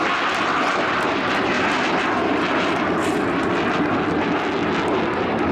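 Twin radial piston engines of a Catalina flying boat droning steadily as it flies past at an air display.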